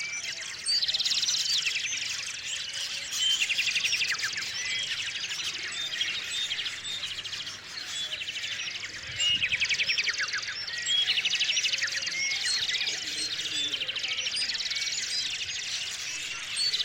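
Chorus of many small songbirds chirping and trilling together, with louder bursts of fast repeated notes every few seconds.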